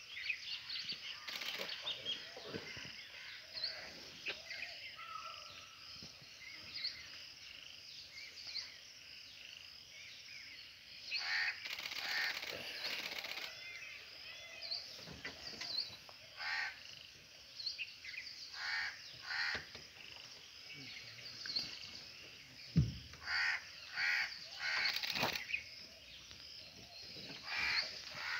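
Birds calling repeatedly in short runs of calls. One dull thump comes about two-thirds of the way through.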